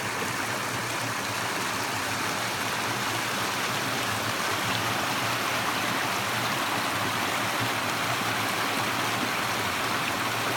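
Creek water running and gurgling steadily over rocks.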